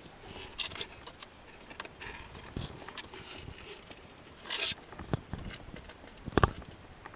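Pet prairie dog scuffling in close handling, with no calls: scattered light clicks and scratches, a short hissy rustle about four and a half seconds in, and a couple of sharper clicks near the end.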